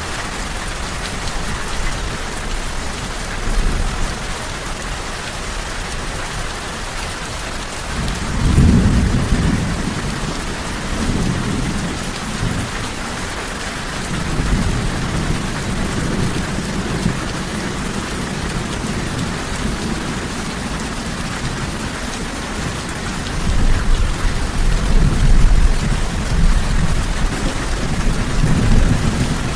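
Steady heavy rain with rolling thunder: a low rumble swells about a third of the way in, comes back more faintly a few times, and builds again near the end.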